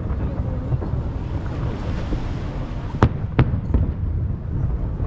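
Fireworks shells bursting over the sea: a continuous low rumble of booms, with two sharp bangs close together about three seconds in and a weaker one just after.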